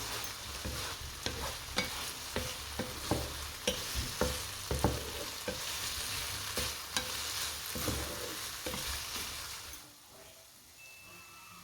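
Food sizzling in a frying pan while being stirred, with frequent taps and knocks of the utensil against the pan. The sizzling cuts off suddenly near the end.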